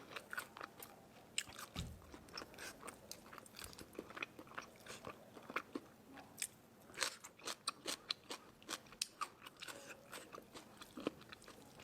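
A person chewing and biting crisp food close to the microphone, with irregular sharp crunches that come in quick clusters separated by short pauses.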